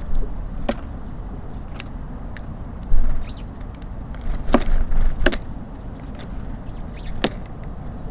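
Small birds such as tits and sparrows at a bird feeder: about six sharp taps and knocks spread through, with a few short high chirps, over a steady low rumble.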